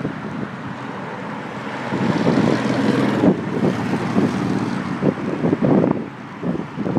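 Wind buffeting the microphone of a handlebar-mounted phone on a moving bicycle, mixed with road and traffic noise. It grows louder about two seconds in and eases near the end.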